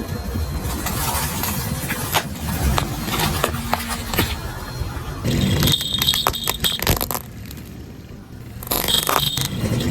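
Car tyre rolling over and crushing objects: dense crackling and crunching with many sharp snaps, then a high squeal with clicks about five seconds in, a brief lull, and the squeal again near the end.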